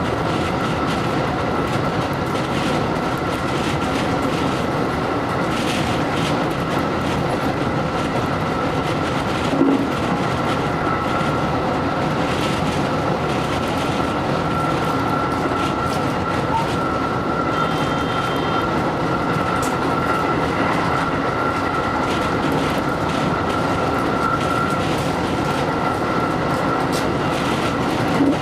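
JR electric train running along the line, heard from inside the car: a steady rolling noise with faint wheel clicks over the rail joints and a steady high tone. There is a short thump about ten seconds in and another at the end.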